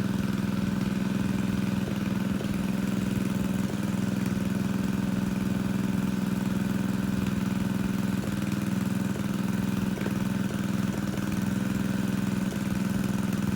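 Engine of a large water pump running steadily at one constant speed while it pumps out a fish pond.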